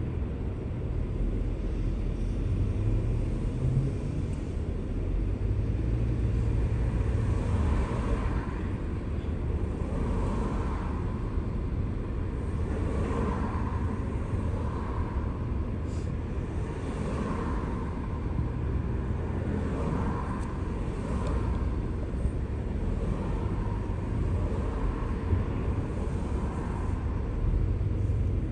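A car driving on a road: a steady deep rumble of engine and tyre noise, with a whoosh every couple of seconds.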